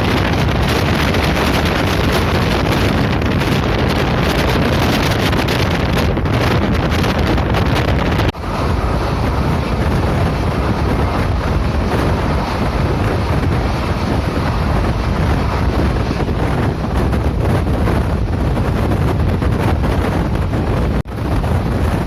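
Moving passenger train heard from on board: steady running noise with wind rushing hard across the microphone. The sound cuts out for an instant twice, about eight seconds in and near the end.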